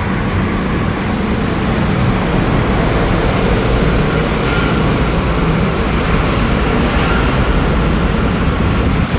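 Triumph Daytona 675 R's three-cylinder engine running through an aftermarket Racefit shorty exhaust, a loud, steady exhaust note.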